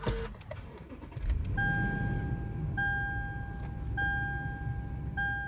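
Toyota Land Cruiser 200 Series' 5.7-litre V8 started from the cabin with the push button: a click, the engine catching about a second in, then a steady idle. Over the idle a dashboard warning chime sounds four times, each tone about a second long.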